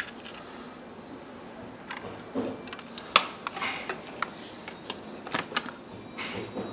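Scattered clicks, light knocks and short scuffs of parts and tools being handled, at irregular times, the loudest a sharp click about three seconds in.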